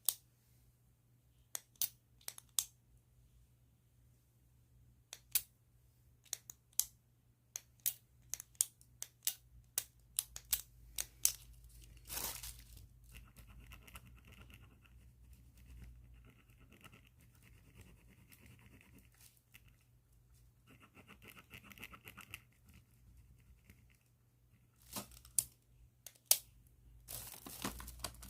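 Plastic bag crinkling and clicking as a pen inside it is handled, then scratchy pen strokes on paper for about seven seconds, a short pause, and two more seconds of strokes. Crinkling plastic again near the end.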